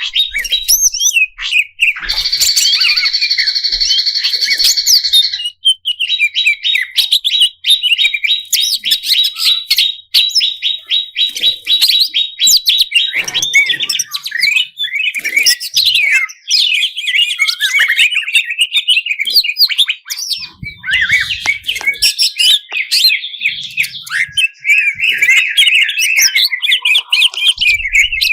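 Green leafbird (cucak ijo) singing loudly in a fired-up, aggressive state: a long, rapid, varied string of chattering and whistled notes. A steady buzzing trill comes about two seconds in and lasts a few seconds.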